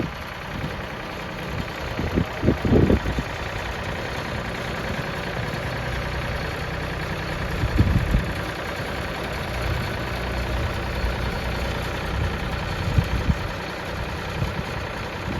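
A vehicle engine idling steadily, with a few short low thumps.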